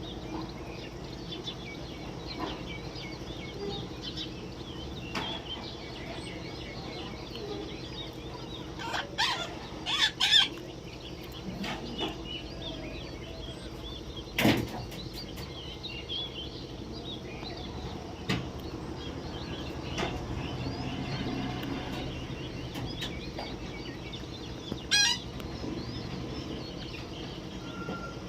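Parrots moving and fluttering, with small scattered clicks and faint chirping over a steady low hum. There are a few short, loud bursts of flapping or squawking, about a third of the way in, around the middle, and near the end.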